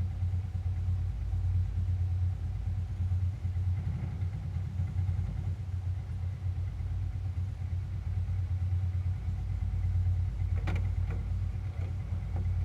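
1992 Suzuki Quadrunner 300's single-cylinder four-stroke engine idling steadily while warming up after a cold start. A few light clicks sound near the end.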